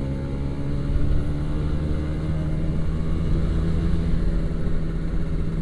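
Kawasaki Ninja 150 RR's single-cylinder two-stroke engine running under way at a steady speed, its pitch holding nearly level, with wind rumble on the microphone.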